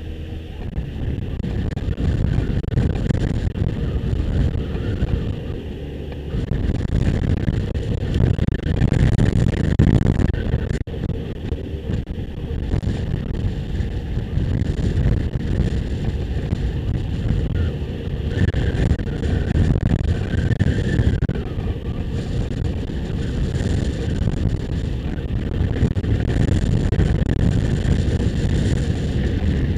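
A motorcycle on the move: its engine running under heavy wind buffeting on the microphone, a loud rumble that swells and eases.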